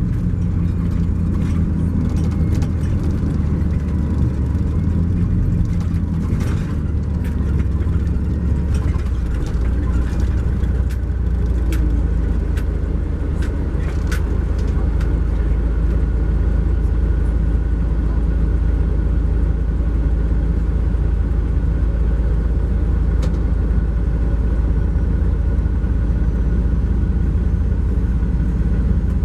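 Cummins ISX12 diesel engine of a 2012 MCI J4500 coach running steadily while under way, heard from inside the cabin as a low drone, with scattered clicks and rattles in the first half.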